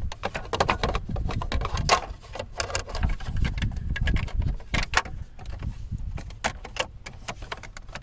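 Plastic steering-column cover shells being worked and pressed together by hand, with many irregular clicks, knocks and rattles of hard plastic as the tabs are slid into place.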